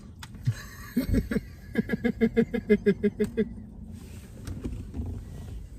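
A person laughing: a short burst about a second in, then a run of quick, even 'ha-ha-ha' pulses, about five or six a second, that stops at about the middle.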